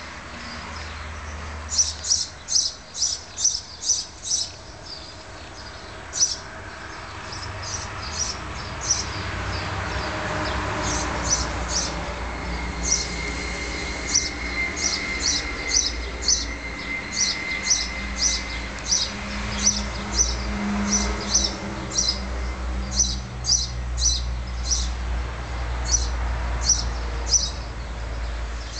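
A bird chirping over and over, sharp high chirps about two or three a second with short pauses, over a low steady rumble.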